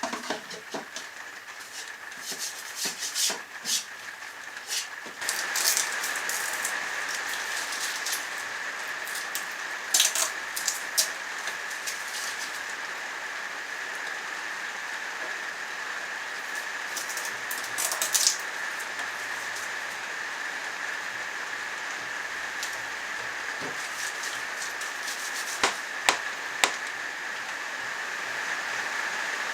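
Steady hiss of heavy rain, heard from inside a workshop, growing louder about five seconds in. Scattered sharp knocks and clicks sound over it, a few of them quick double or triple taps.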